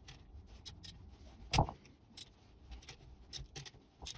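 Metal tools and engine parts being handled during an engine teardown: scattered light clicks and clinks, with one louder knock about a second and a half in.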